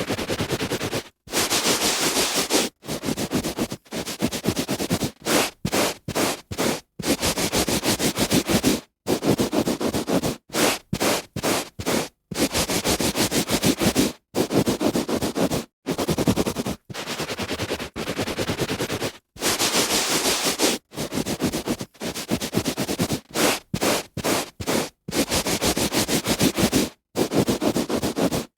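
A hand rubbing back and forth over carpet pile, a dry brushing scrape. It comes in irregular strokes, some about a second or two long and others quick and short, each cut off cleanly with a gap between.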